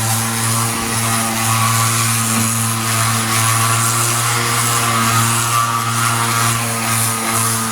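Power sander running steadily, sanding body filler on a truck door: a constant motor hum with a high hiss from the abrasive disc.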